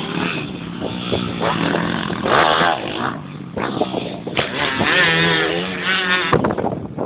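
Small motocross bike engine revving up and down under the throttle, its pitch rising and wavering, then dropping off near the end.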